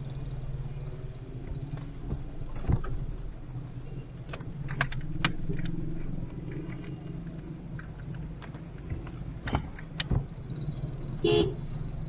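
Car moving along a highway, heard with a steady low drone of engine and road, with scattered sharp clicks and taps at irregular times. A short pitched sound comes near the end.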